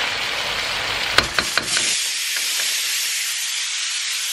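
Chicken curry sizzling in a wok as a steady hiss, with a wooden spatula stirring and knocking against the pan a few times in the first two seconds.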